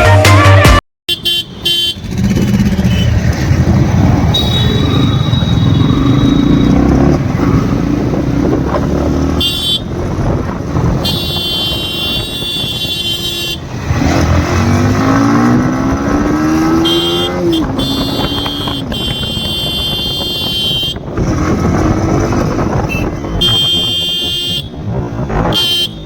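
Yamaha MT-15's single-cylinder engine running while riding through traffic, pitch rising as it revs up through a gear about two-thirds of the way in, with vehicle horns honking repeatedly around it.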